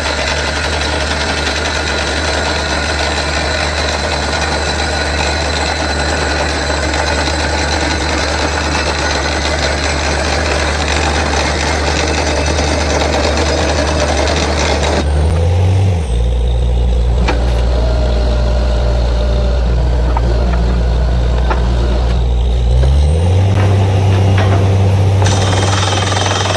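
Truck-mounted borewell drilling rig running, its engine under load with a steady drilling noise over it. About 15 seconds in, the drilling noise stops and the engine drops to a lower pitch. It rises again around 23 seconds, and the drilling noise comes back near the end.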